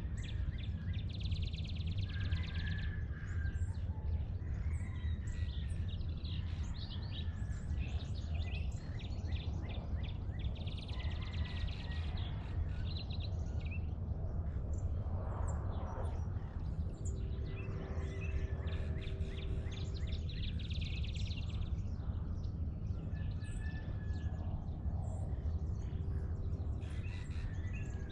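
Dawn birdsong from several birds, with short calls throughout and a fast trilled song repeated about every ten seconds, over a steady low rumble.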